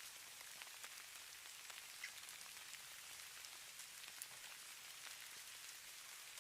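Falling snow ticking faintly on surfaces: a soft, even hiss with many small scattered ticks.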